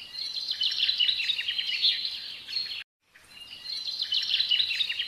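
Songbird singing: a rapid run of high chirps and trills. It cuts off abruptly just under three seconds in, then the same phrase starts over.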